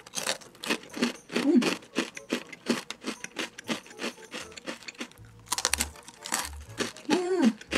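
Crisp caramel rusk being bitten and chewed: a quick, irregular run of sharp crunches, several a second.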